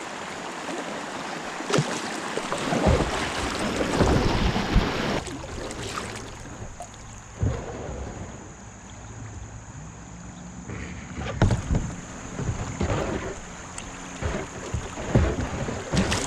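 Kayak paddle strokes dipping and splashing at irregular intervals, over a steady rush of moving water and wind on the microphone that eases off about six seconds in.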